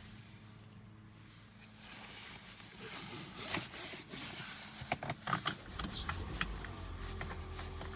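Clicks and rustling of handling inside a 2007 Toyota Camry Hybrid, then about six seconds in its 2.4-litre four-cylinder petrol engine starts up on its own and runs with a steady low hum.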